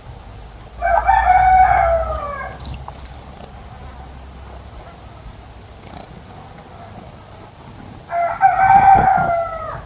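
Two long, loud bird calls, each about a second and a half long and dropping in pitch at the end, about seven seconds apart.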